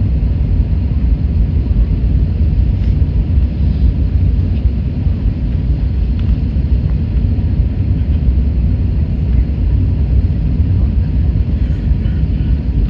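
Steady low rumble inside an Airbus A321neo airliner's passenger cabin, from the jet engines and the airflow around the aircraft, heard from a seat near the rear.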